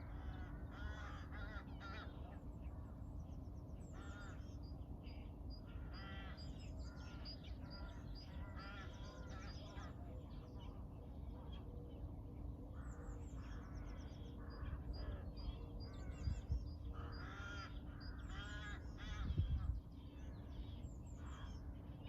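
Many birds singing and calling together: a busy run of chirps, trills and short whistled phrases over a steady low rumble, with two dull low thuds in the second half.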